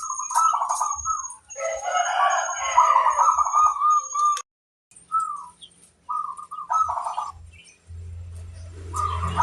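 Zebra doves (perkutut) cooing in short, quick-trilled phrases, repeated several times. A rooster crows once early on for about three seconds over the cooing, the sound cuts out abruptly for half a second midway, and a low steady hum comes in near the end.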